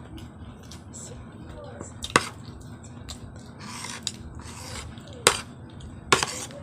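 Tableware knocking sharply three times, about two seconds in and then twice close together near the end, with soft rustling between.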